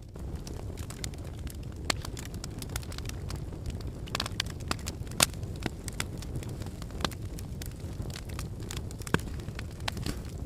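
Wood fire burning in a fireplace: a steady low rumble of flames with irregular sharp crackles and pops from the logs, the loudest pops about five and nine seconds in.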